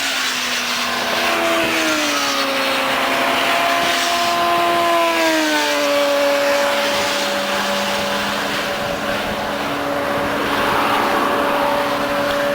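A vehicle at high highway speed: the engine tone eases slightly lower over the first few seconds, then holds steady, under a strong rush of wind and road noise.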